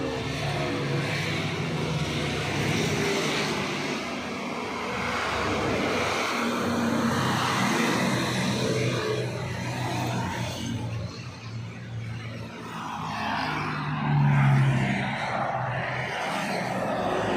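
Motor vehicle engines running, with a steady low drone and one passing swell that grows louder about fourteen seconds in.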